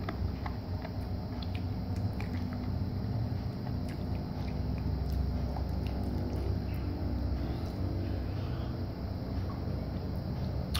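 A person chewing crunchy roasted soybeans, heard as small, irregular crunching clicks over a steady low background hum.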